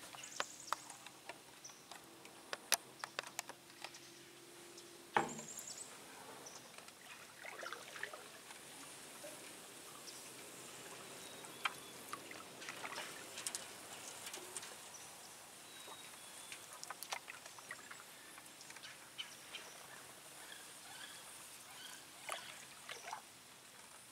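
Canoe paddle dipping into the river water, with faint splashes, trickles and drips scattered through, and a single sharper knock about five seconds in.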